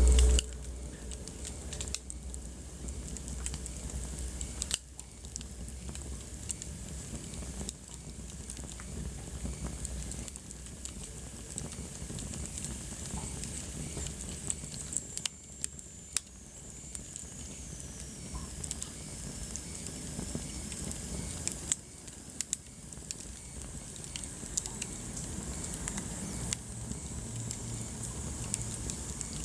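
Wood fire crackling in a fireplace, with frequent sharp pops and snaps over a soft hiss. A brief low thump at the very start, and a faint high whistle falling in pitch about halfway through.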